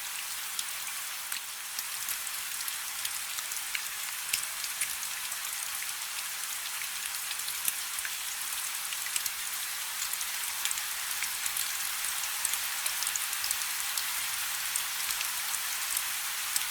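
Steady rain falling on a river: a constant hiss with many separate drops pattering on the water.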